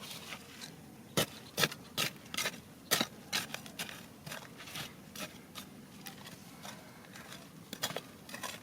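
Irregular clicks, knocks and scrapes of stones and gravel being dug through and handled, a few sharper knocks standing out among lighter ones.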